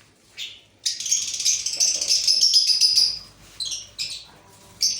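Pet parrots screeching and chattering at close range. A short call comes first, then a dense stretch of overlapping calls lasts about two seconds, and single shrill calls follow near the end.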